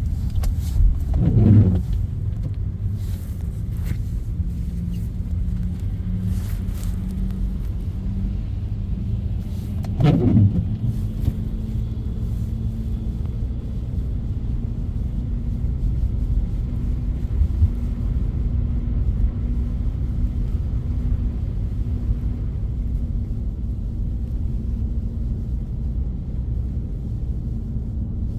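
Car driving in snow: a steady low rumble of engine and tyres on the road. A short falling-pitch sound cuts in twice, about a second in and again about ten seconds in.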